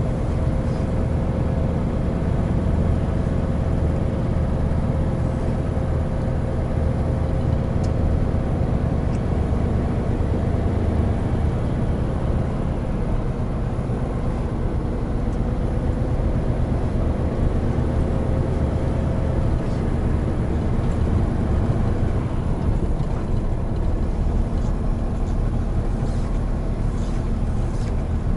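Hino Profia heavy truck's diesel engine running steadily under way, with a low drone and road noise. A faint steady whine fades out about two-thirds of the way through.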